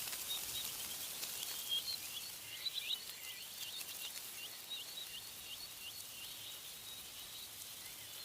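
A songbird calling in a long series of short, high chirps, quick at first and then about three a second, fading out near the end. Wind hisses in the trees underneath.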